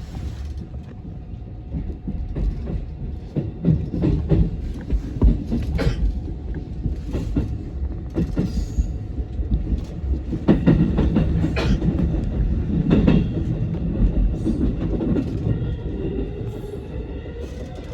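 JR West Osaka Loop Line electric commuter train running: a steady low rumble of wheels on rail with scattered clicks over rail joints, and a tone rising in pitch near the end.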